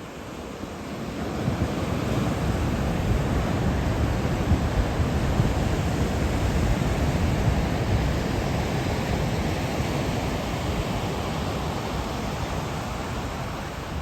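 Rough surf from an approaching typhoon's swell, with wind buffeting the microphone: a steady rush that builds over the first couple of seconds and eases slightly near the end.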